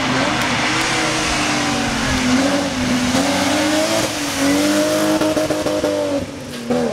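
Rally car engine revving hard under full acceleration, its pitch climbing and then stepping down and climbing again several times as it changes up through the gears. About six seconds in the engine note drops away briefly, then comes back loud just before the end.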